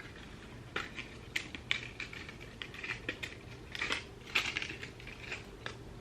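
Hands working a wig on the head while pinning it in place with T-pins: a run of short scratchy rustles and light clicks of hair and lace being handled.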